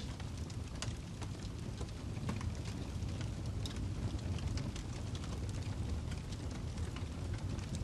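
Wood fire burning in a fireplace: a steady low rumble of the flames with irregular sharp crackles and pops from the burning log, several a second.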